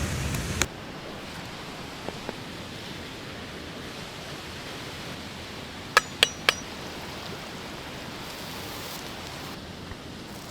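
Steady hiss, with three quick, ringing metallic clinks about six seconds in. A louder low rumbling noise cuts off suddenly just after the start.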